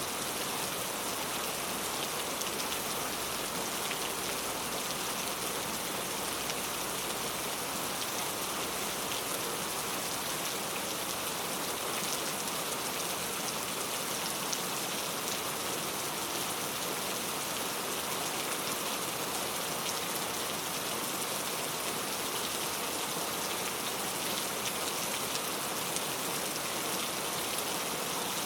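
Steady rain falling, an even hiss full of fine drop patter.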